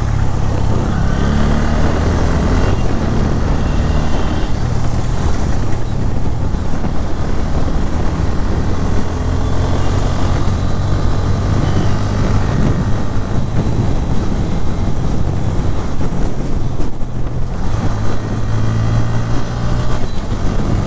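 Bajaj Pulsar N160's single-cylinder engine and exhaust pulling hard under acceleration while riding, with wind rushing over the microphone. The engine note climbs with the revs, dips briefly near the end as if at a gear change, then climbs again.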